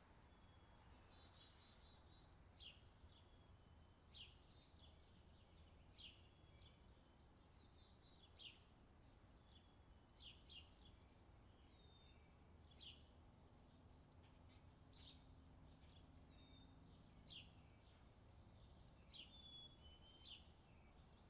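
Faint outdoor ambience with a small bird giving short, sharp, high chirps, one every second or two, over a low steady background rumble.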